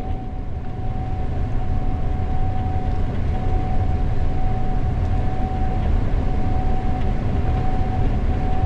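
Gleaner S98 combine running steadily while harvesting corn: a deep, even rumble with a constant high whine over it.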